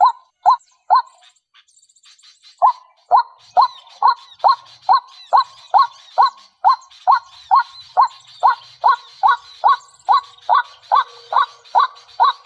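A bird calling over and over, about two short calls a second, with a pause of about a second and a half early in the sequence. Fainter high chirps from other birds sound behind it.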